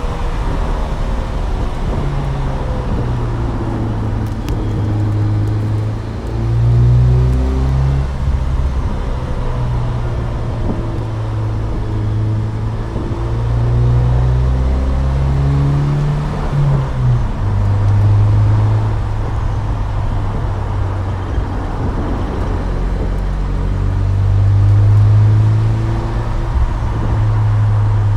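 2007 Saturn Sky Redline's turbocharged 2.0-litre four-cylinder, factory exhaust and intake, running under way. The engine speed rises and falls through the gears, louder about 7 seconds in and again near the end.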